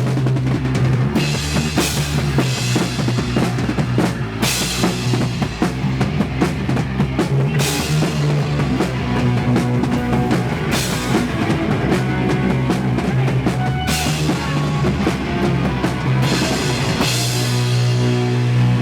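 Punk band playing live: full drum kit with a cymbal crash every few seconds over bass and guitar. Near the end the drums drop away and the guitar and bass carry on.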